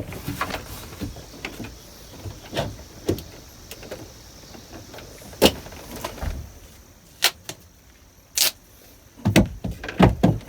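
Scattered clicks and knocks of hands working on a dual-cable rotary helm's steering cable hardware, with several in quick succession near the end.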